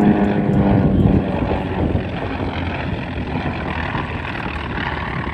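T-28 Trojan aircraft with Wright radial engines flying past. The engine note drops in pitch over the first second or so as they go by, then settles into a rough drone.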